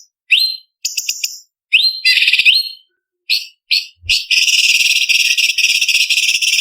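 Orange-bellied leafbird (cucak cungkok) singing: short bursts of rapid chattering notes and quick upward-sliding whistles, then from about four seconds in one long unbroken rapid trill.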